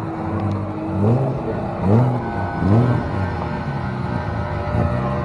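Car engine revved in a series of quick blips, its pitch swinging up and falling back about every three-quarters of a second.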